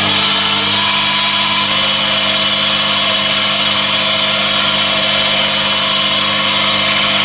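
Chinese mini lathe running steadily under a facing cut, the tool feeding across the face of a stainless steel part toward the centre. A steady motor and gear whine with a high cutting hiss over it.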